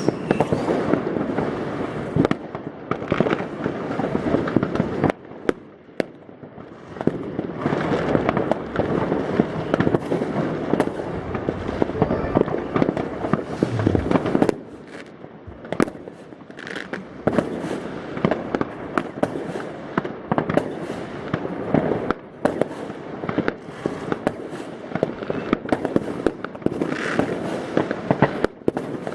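New Year's Eve fireworks: a dense, continuous crackle of many rockets and firecrackers with frequent sharp bangs, easing briefly twice.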